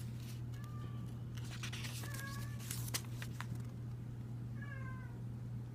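A cat meowing several times in short calls, over the rustle of paper pages being turned in the first half and a steady low hum.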